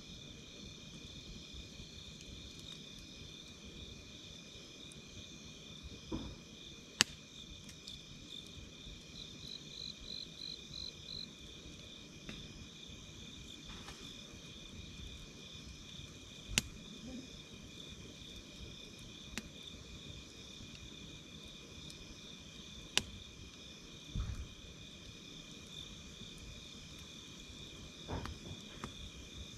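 A steady night chorus of crickets and other insects trilling, with one insect's faster pulsed trill joining briefly about a third of the way in. Over it, a wood campfire gives a few sharp, isolated pops and a few soft low thuds.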